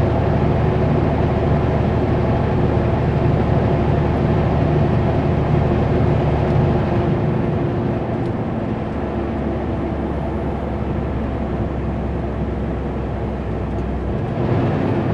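Kenworth W900L semi truck under way, heard in the cab: a steady diesel engine drone with tyre and road noise, easing off a little about halfway through.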